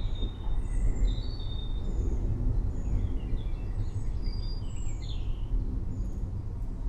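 Forest birds chirping and whistling, many short overlapping calls, over a continuous low rumble.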